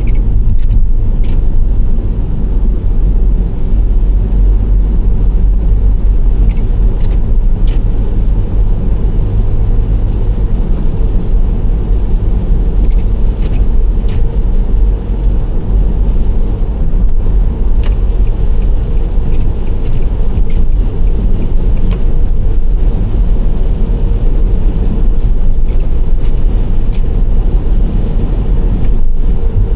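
Nissan Serena C25 minivan driving at a steady pace: a continuous low rumble of tyres and engine, with a few faint ticks scattered through it.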